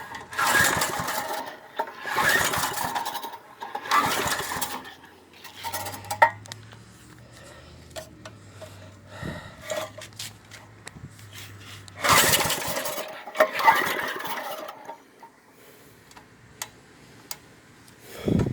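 Recoil pull-start attempts on a 1995 Briggs & Stratton 5 hp single-cylinder go-kart engine being cold-started after about seven years unused: a rattly cranking whir about a second long with each pull, three pulls close together, then two more near the end. The engine does not catch and run.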